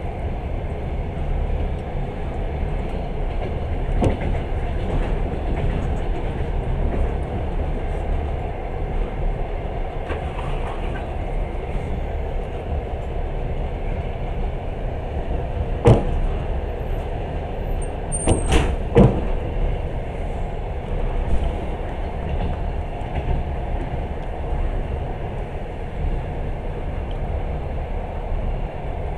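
Passenger train running steadily, heard from inside the carriage: an even low rumble of wheels and car body. A sharp knock comes about halfway through, and two or three more follow a few seconds later.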